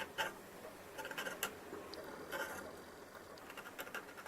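Light scratching and small clicks of a plastic model kit part being handled and worked on a bench, in short irregular bursts.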